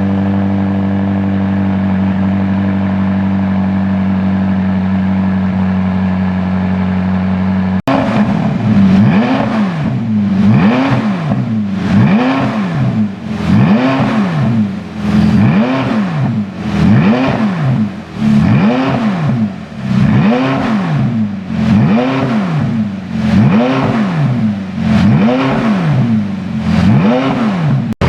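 McLaren 570S twin-turbo V8 exhaust through a custom dual exhaust system. It idles steadily, then after an abrupt cut about eight seconds in it is revved in repeated blips, roughly one every second and a quarter, each rising and falling in pitch.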